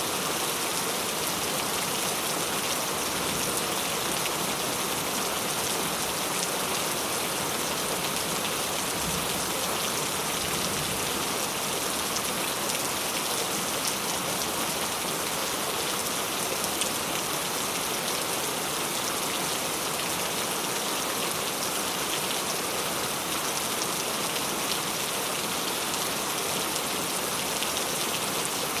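Steady rain falling, an even hiss with fine scattered drop ticks that does not change.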